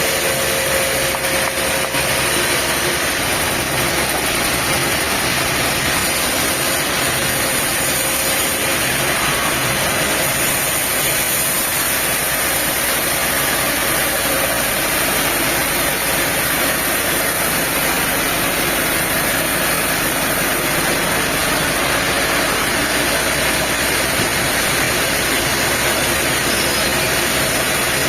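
Diesel engine of sawmill machinery running steadily at an even speed, with no change in load.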